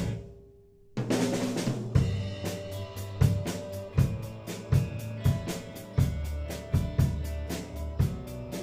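A band with a drum kit playing a song. It breaks off suddenly, and after about a second of near-silence the drums and the other instruments come back in together, playing on with a steady beat of kick and snare hits.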